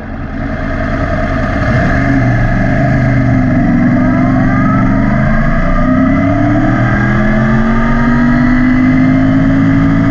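Yamaha YZF-R1's crossplane inline-four running through an Akrapovic exhaust while riding, fading in at the start. The engine note climbs in pitch under acceleration, drops back as it shifts gear about halfway through, then climbs again.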